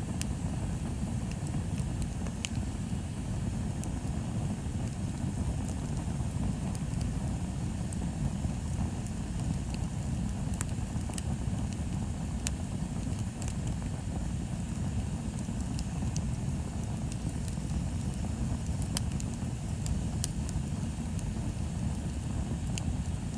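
Wood bonfire burning, with scattered sharp crackles and pops over a steady low rumble.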